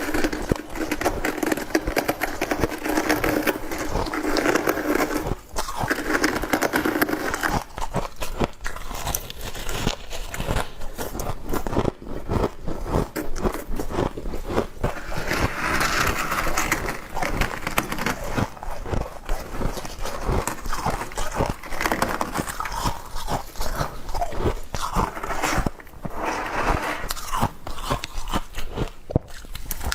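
Someone biting and chewing fresh frost: a dense, irregular run of crisp crunches and crackles.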